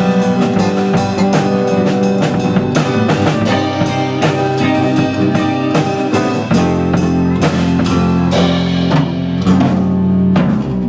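A live band playing rock music, with a drum kit keeping a steady beat under guitar. About halfway through, a deep held bass note comes in.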